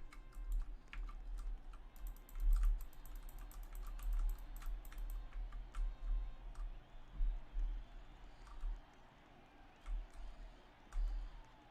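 Typing on a computer keyboard: a quick run of key clicks about two seconds in, then scattered clicks, over dull low thumps.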